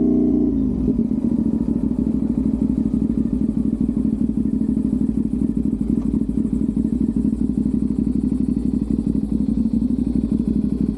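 Sport motorcycle's parallel-twin engine running at steady revs. About half a second in the revs drop, and it carries on at lower revs with a rough, fast-pulsing note.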